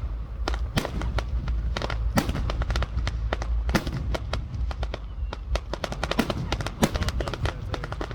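Fireworks display going off: a dense, irregular run of sharp cracks and bangs, several a second, over a steady low rumble.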